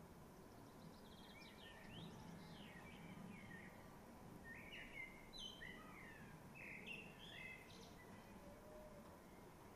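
Faint songbird chirps and short whistled phrases, most of them in the middle seconds, over a low background hiss.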